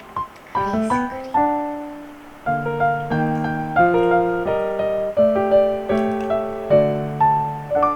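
Background music: a gentle solo piano piece, a quick rising run of notes and then soft chords struck one after another.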